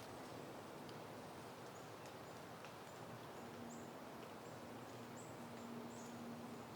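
Soft, steady wind hiss in the open air, with many short high chirps scattered through it. A faint low hum comes in about halfway.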